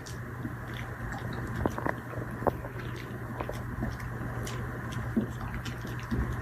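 Dog chewing: irregular small crunches and clicks over a steady low hum.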